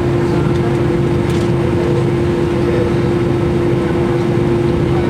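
Steady cabin noise inside an Airbus A319: a constant rumble with one steady droning tone over it.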